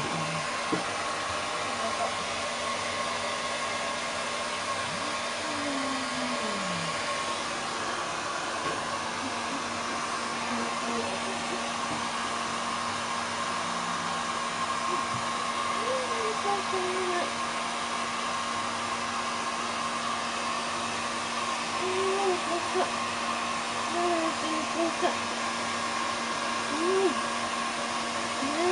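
Hair dryer running steadily, blow-drying a cat's wet fur after a bath: an even rush of air with a steady hum. A few brief, faint higher sounds come through over it in the second half.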